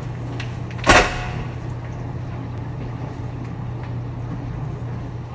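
A single sharp knock about a second in, as of something hard being shut or set down, over a steady low hum.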